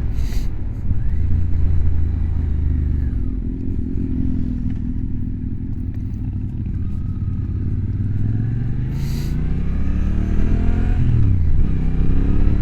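Motorcycle engine under way, running steadily at first, then rising in pitch for several seconds as it accelerates. The pitch drops sharply about eleven seconds in and climbs again, over the rush of wind and road noise.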